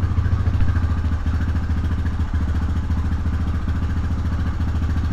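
1999 Honda Fourtrax TRX300FW's single-cylinder four-stroke engine idling steadily, its idle just raised with the idle screw after it had been on the verge of stalling.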